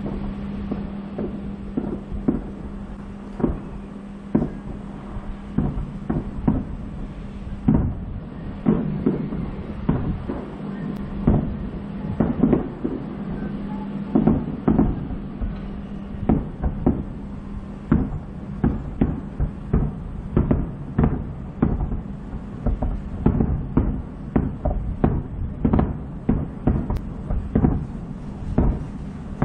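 Aerial firework shells bursting in a rapid, irregular series of booms and bangs. They come about one a second at first, then thicker and overlapping from about eight seconds in.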